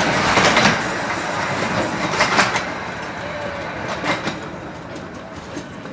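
Carriages of a 15-inch gauge miniature railway train rolling past, their wheels clicking over the rail joints, the sound fading as the train pulls away.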